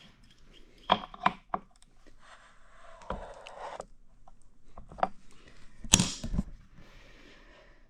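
Scattered light knocks and clinks with short stretches of scraping in between, from handling the opened drill transmission gearbox and its parts; the loudest knock comes about six seconds in.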